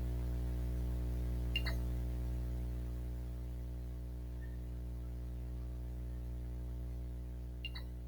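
Steady electrical hum with many evenly spaced overtones, slowly fading. Two brief high blips come about a second and a half in and again near the end.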